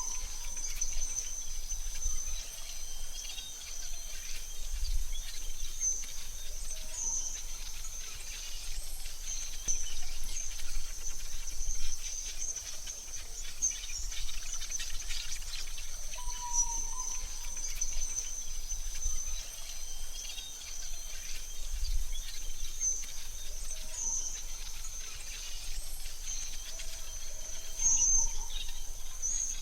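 AI-generated forest ambience: a steady, high-pitched insect drone with a few short bird chirps scattered through it.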